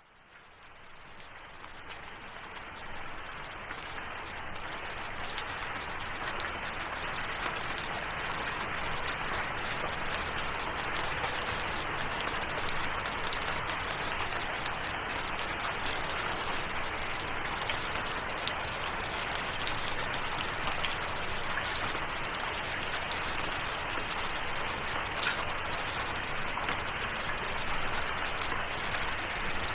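Steady rainfall, fading in from silence over the first few seconds and then holding even, with scattered sharp ticks of individual drops.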